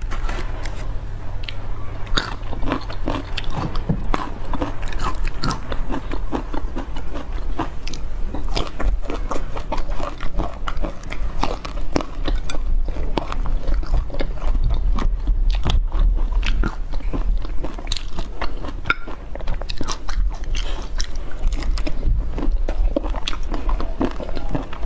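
Close-miked eating sounds of a person biting into and chewing a large chili-coated shrimp, a dense, continuous run of sharp crunchy clicks and wet chewing, over a steady low hum.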